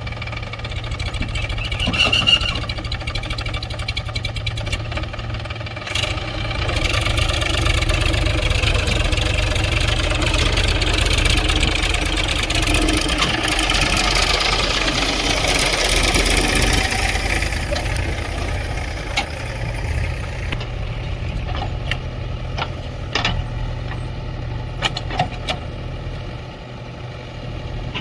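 Diesel engines of a backhoe loader and tractors running. For about ten seconds in the middle they get louder and harsher as the machinery works harder, then settle back to a steady run, with a few sharp knocks near the end.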